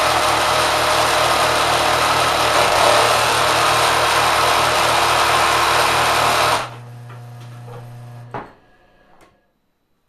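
Kenmore sewing machine driven by a 3/4 hp motor, running fast with a loud, steady mechanical clatter and an even low pulse. About six and a half seconds in the clatter cuts off suddenly, leaving a quieter hum that dies away after a single knock. The owner puts this down to the drive belt being spit off, because a groove is worn into one part.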